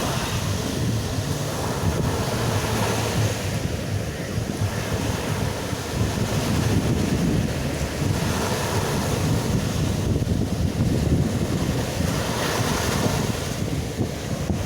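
Rough sea surf breaking on a beach, waves crashing and washing in one after another every few seconds, with heavy wind buffeting the microphone.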